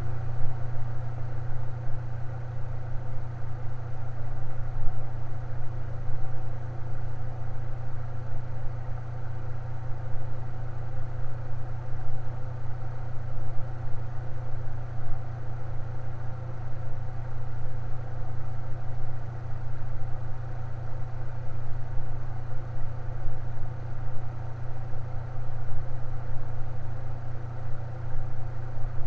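Electric fan running steadily, a constant low motor hum with a soft whoosh of moving air.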